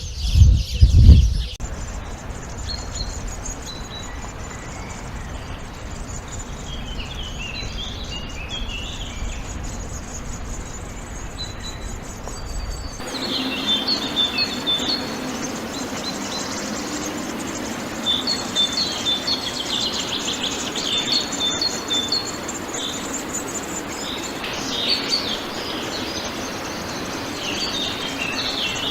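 Small birds chirping and singing over a steady outdoor hiss, opening with a few loud low thumps. About 13 seconds in, the background changes abruptly to denser, busier birdsong.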